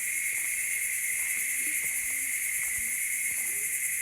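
Steady insect chorus, a continuous high buzz, with faint voices talking in the background.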